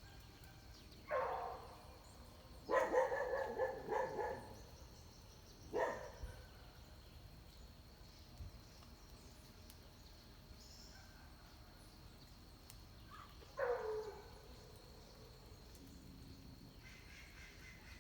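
A dog barking in the distance: a few single barks and one quick run of barks, with long pauses between them.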